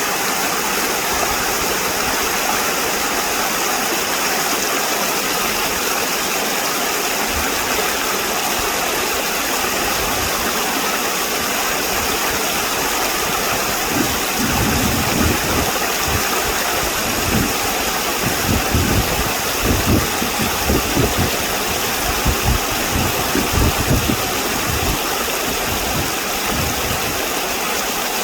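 Steady rushing of flowing stream water. From about halfway through until near the end, irregular low rumbling surges come and go on top of it.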